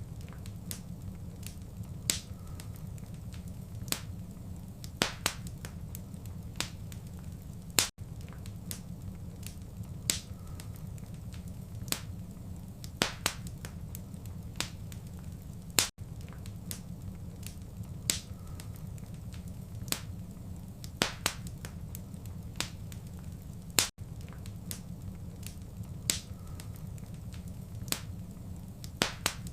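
Fireplace fire crackling: sharp, irregular pops and snaps a few times a second over a steady low rumble of the flames. The same stretch of crackling repeats about every eight seconds, with a brief dropout at each join.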